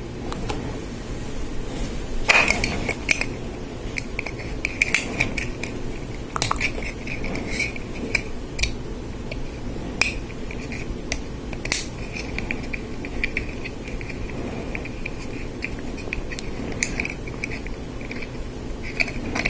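Hard plastic Lego Technic parts clicking and rattling as they are handled, sorted and snapped together, with many sharp clicks throughout.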